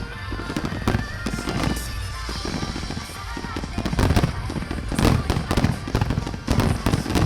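Fireworks shells bursting in quick succession, deep booms with crackle between them, growing denser and louder from about four seconds in.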